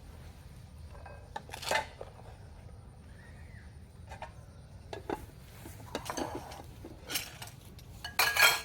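Dishes and utensils clinking and clattering now and then, the loudest clatter near the end.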